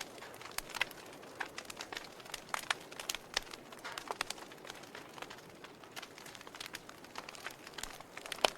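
Wood fire crackling in a fireplace: irregular sharp pops and snaps over a soft steady hiss of the flames, with the loudest pop near the end.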